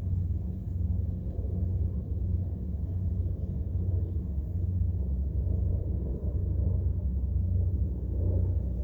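Steady low rumbling noise, with no distinct events.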